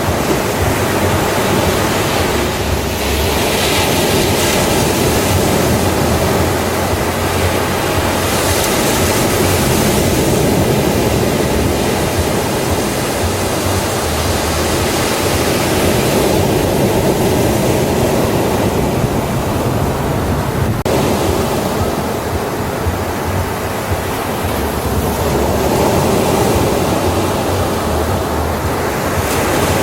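Ocean waves washing onto a beach: a continuous surf rush that swells and eases in slow surges every several seconds.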